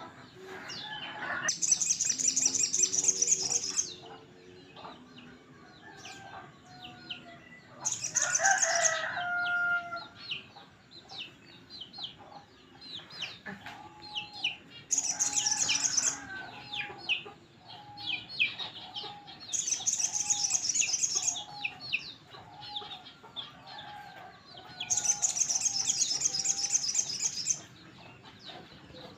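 Crested jay (sogon) calling: five loud, high, rattling bursts of about two seconds each. Between the bursts there are quieter chirps and a run of short, evenly repeated notes.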